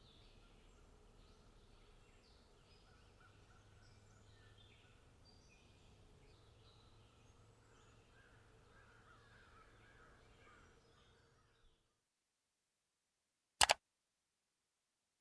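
Birds chirping and calling faintly outside over a low steady hum, which cuts off abruptly about twelve seconds in. Near the end comes one brief, loud double click.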